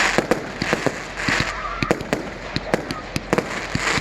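Fireworks going off: a rapid, uneven string of bangs and pops, several a second, with crackling hiss between them.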